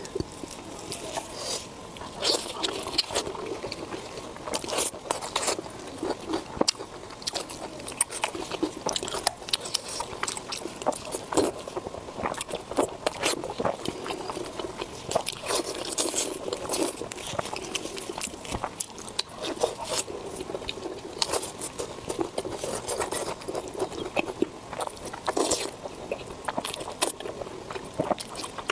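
Close-miked eating: a person chewing and biting food, with many irregular sharp clicks and wet mouth sounds.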